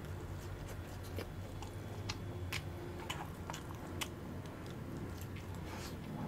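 A person chewing fries close to a clip-on microphone, with scattered small crunches and mouth clicks.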